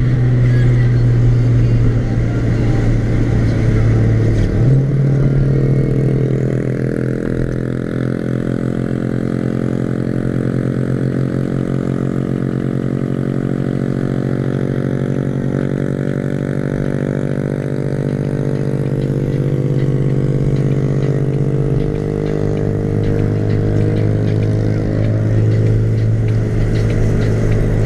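Car engine droning at steady revs; the pitch steps up about four seconds in and drops back down near the end.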